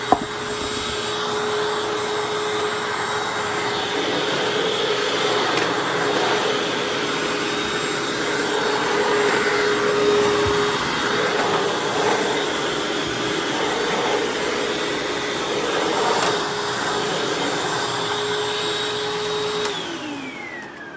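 Hoover Anniversary upright vacuum cleaner running with a steady motor whine, swelling and easing every few seconds as it works the carpet. Near the end it is switched off and the whine falls away as the motor winds down.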